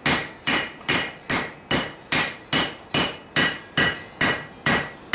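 A blacksmith's hammer striking hot steel on a 90-pound cast-iron Vulcan anvil in a steady forging rhythm, about two and a half blows a second. Each blow rings briefly with a high metallic tone.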